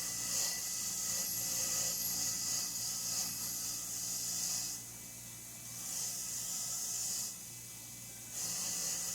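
Gunked-up bolts being cleaned on a running power cleaning tool: three long bursts of harsh, rasping hiss, with a steady machine hum continuing between them.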